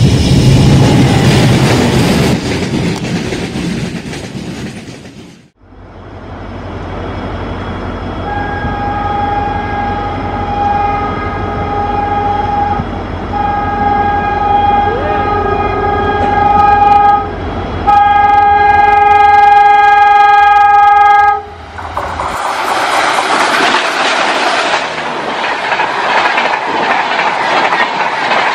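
A train rumbles past loudly and fades out. Then WDM3D Alco diesel locomotives approach with a low engine rumble and sound their horn in three long blasts of several seconds each. Near the end, the Tejas Express coaches rush past at speed, their wheels clattering over the rail joints.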